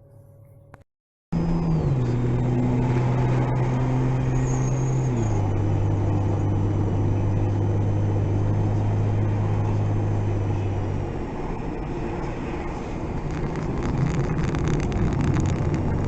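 Motor vehicle engine running, a steady drone that starts abruptly about a second in and steps down in pitch twice within the next few seconds, then eases off. Rapid rattling clicks come near the end.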